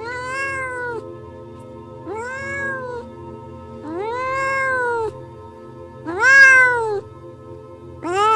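A cat meowing five times, about every two seconds, each meow about a second long, rising and then falling in pitch, over background music.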